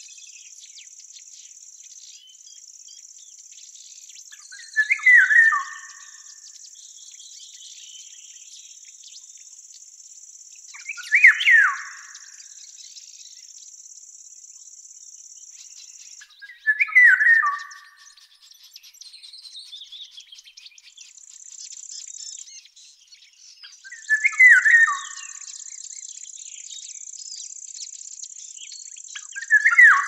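A bird singing a short falling phrase about a second long, repeated about every six seconds, over a steady high-pitched insect trill that drops out for several seconds midway.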